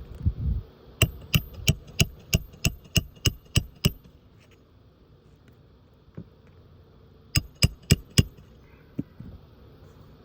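Hammer driving roofing nails into shingles: a run of nine sharp strikes about three a second, then a quicker run of four strikes several seconds later.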